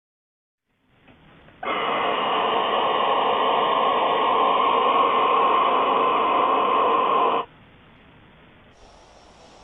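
Steady static-like hissing, muffled as if heard through a radio or phone speaker, that starts suddenly, runs about six seconds and cuts off sharply, leaving a faint hiss.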